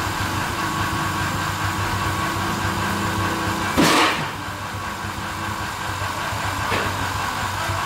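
An old truck's engine idling steadily, with one short burst of hiss about four seconds in.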